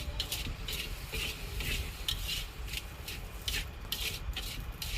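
Metal spatula scraping and tossing fried rice in a wok, in short repeated strokes about two a second.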